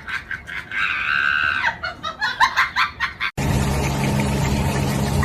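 Fowl clucking in a fast run of short calls, with one drawn-out screech about a second in. About three seconds in it cuts off abruptly to a steady droning hum.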